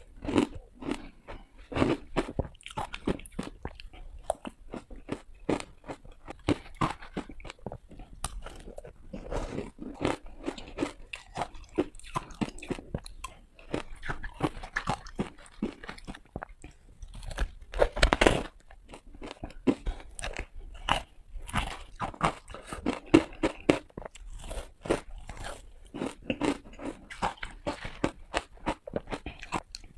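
Close-up crunching of ice being bitten and chewed: a dense run of crisp cracks, several a second, with a louder burst of crunching about two-thirds of the way through.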